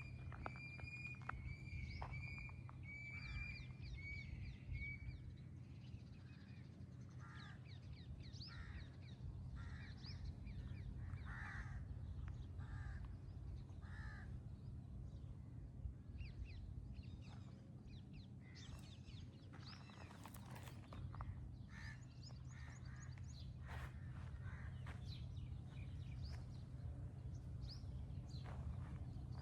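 Crows cawing repeatedly, short calls about a second apart, with a run of higher, quicker calls from another bird in the first few seconds. A steady low hum lies underneath.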